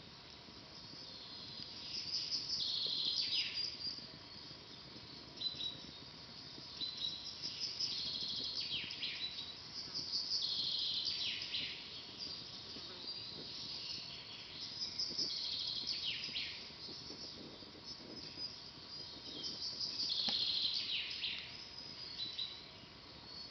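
Forest birds singing: a string of high, rapid trilled phrases, each ending in a falling note, repeated every few seconds. Underneath, a soft hiss with faint crackling from a wood campfire.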